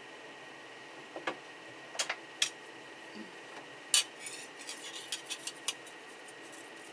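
Sharp clicks and light knocks of a freshly printed plastic part being handled and worked off a 3D printer's textured build plate. There are a few single clicks, then a quick run of smaller ones, over a faint steady high whine.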